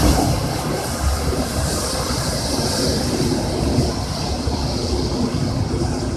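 Steady rumble of a large vehicle running, with a constant hiss above it.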